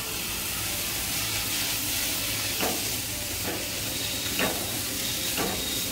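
Chopped tomato, onion and grated coconut frying in coconut oil in a non-stick pan, sizzling steadily as the tomato hits the hot pan. A wooden spatula stirs and scrapes through the mix about four times, roughly once a second.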